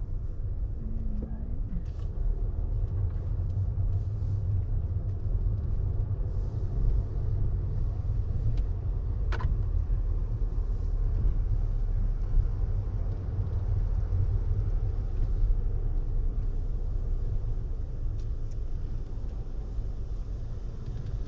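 A car's engine running with a steady low rumble, with a few light clicks over it and one sharper click about nine seconds in.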